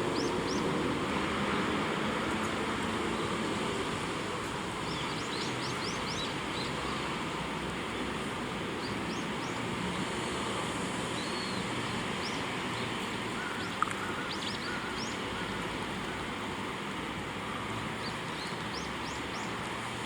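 Faint, short, high-pitched bird chirps in scattered groups over a steady background hiss and rumble. A single sharp click comes about two-thirds of the way through.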